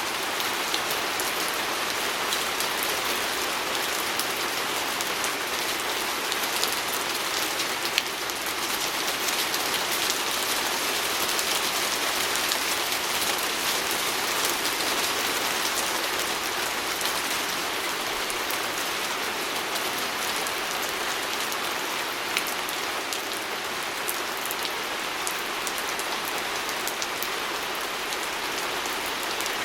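Steady rain pattering on a window pane: an even hiss of rainfall with scattered sharper drop ticks, a couple of them louder, about eight seconds in and again near twenty-two seconds.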